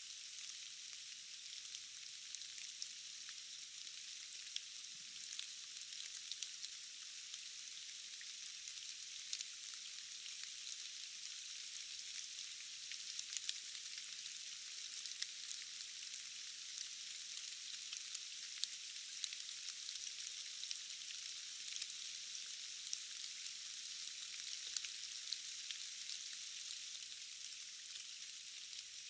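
Steady rain, a dense hiss of falling drops with many small drop ticks scattered through it. The sound is thin and bright, with no deep tones at all.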